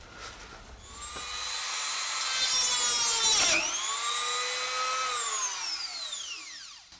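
A small high-speed rotary tool is cutting into a seized steel nut with a high whine. The pitch dips sharply about halfway through as it bogs under load, picks up again, then winds steadily down toward the end.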